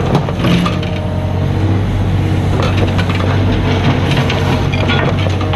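Mini excavator's diesel engine running steadily while working, with irregular sharp knocks and cracks from the digging.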